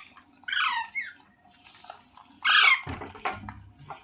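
Ringneck parrot squawking: two loud, harsh calls that fall in pitch, about half a second in and again near the middle, with shorter, softer chirps between.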